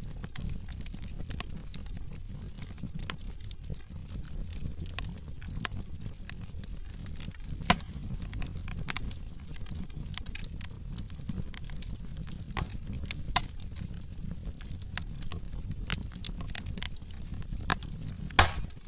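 Wood fire burning in a fireplace: a steady low rumble of flames with irregular crackles and snaps of burning logs, with sharper pops about eight seconds in and near the end.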